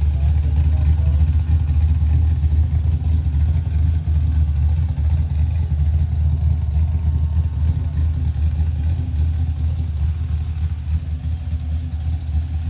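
Motor vehicle running, a steady low rumble with no change in pitch.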